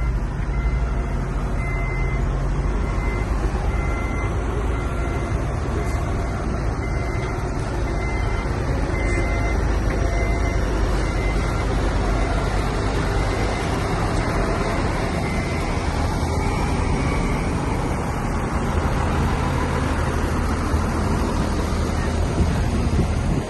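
Heavy diesel engine of a bulldozer running steadily under load, with a reversing alarm beeping in a steady repeating pattern through about the first half.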